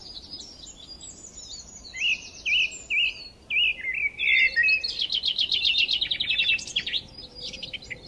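Birds singing: a handful of short, high whistled notes, then fast high trills from about five seconds in.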